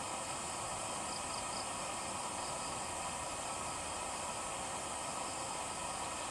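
Steady hiss of forest ambience thick with insect calls, with three faint high chirps a little over a second in.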